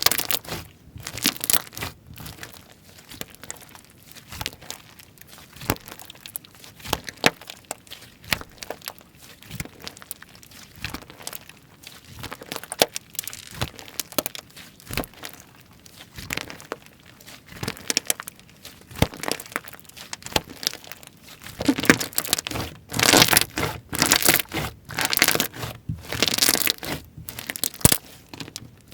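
Slime being squeezed, stretched and pressed by hand, making rapid crackling and popping clicks, busiest and loudest about three-quarters of the way through.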